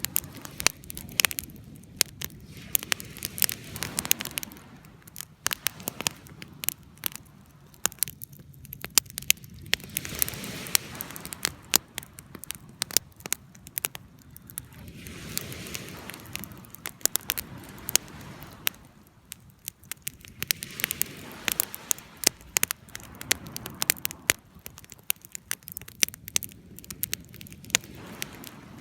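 Wood fire burning, with frequent sharp crackles and pops over a soft hiss that swells and fades every few seconds.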